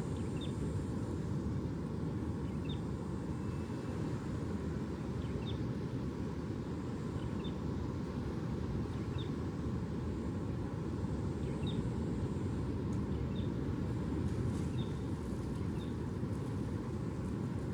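Steady low rumbling outdoor ambience, with faint short high chirps repeating every second or two.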